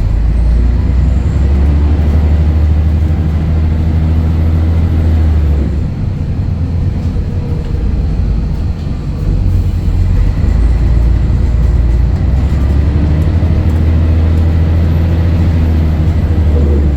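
Scania DSC11 11-litre six-cylinder diesel engine of a Scania L113CRL bus pulling under load, easing off for a few seconds around the middle, then pulling strongly again.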